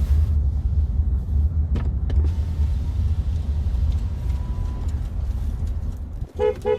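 Steady low rumble of a car on the move, heard from inside the cabin, with a single click about a second and a half in. The rumble dips briefly near the end.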